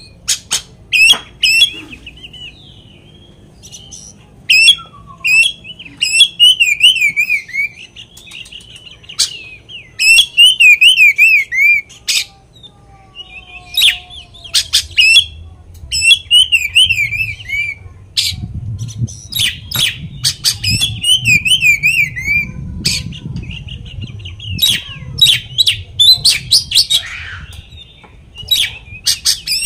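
Oriental magpie-robin (kacer) singing a loud, varied song of fast warbled phrases and sharp whistled notes, loaded with mimicked calls of other birds. A low rumble runs under it in the second half.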